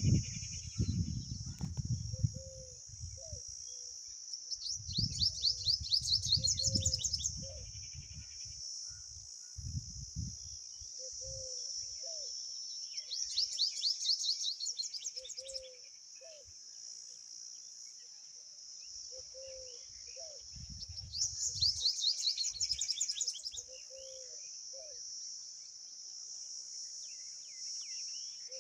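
A steady high-pitched insect drone runs throughout. Three times, each for about two and a half seconds, a bird gives a fast series of high chirps over it, with low rumbling thuds around the first and last bouts.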